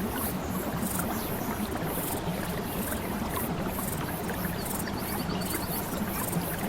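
A steady rush of flowing water, like a stream, with a brief rapid high trill about five seconds in.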